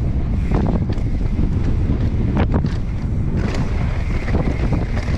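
Wind buffeting the microphone of a mountain bike descending a dirt trail at speed, a steady rumble, with a few sharp knocks and rattles from the bike over rough ground.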